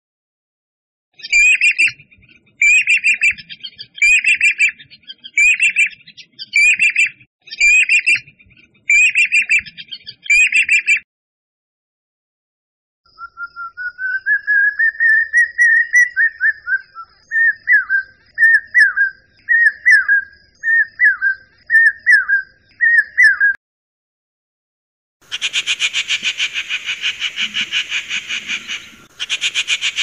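Three bird calls in turn. First a pied cuckoo gives about eight loud, ringing calls, a little over a second apart. Next a common hawk-cuckoo gives shrill whistled notes that first rise in pitch and then repeat quickly, and near the end a rufous treepie makes a fast rasping rattle.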